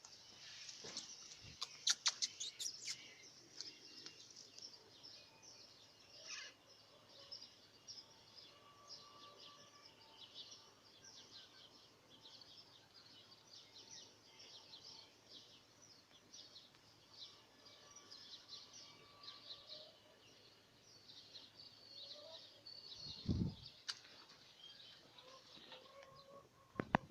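Parrots chirping softly, many short high calls scattered throughout, with a few sharp clicks about two to three seconds in and a brief low rumble near the end.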